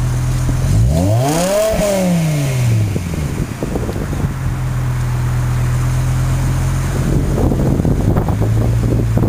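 BMW M6's V10 engine idling, revved once about a second in: the pitch climbs and falls straight back to idle within about two seconds.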